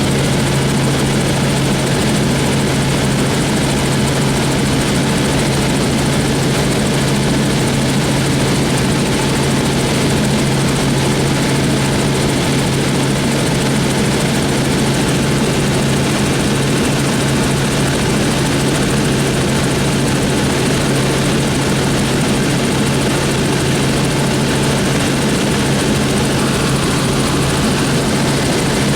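Helicopter in flight, heard from on board: a loud, steady drone of rotor and engine with a constant low hum underneath, unchanging throughout.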